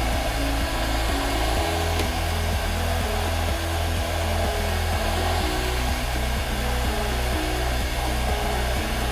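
Heat gun blowing steadily, warming PVC pipe to soften it so a slightly larger pipe stub can be pushed in, under background music with a stepping bass line.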